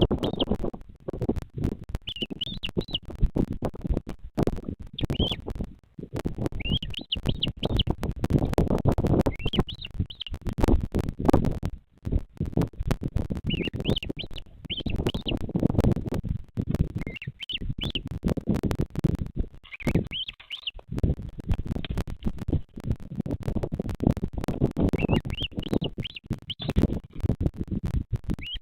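Short bursts of high chirping bird calls repeated every second or two, over a loud low rumble with crackles.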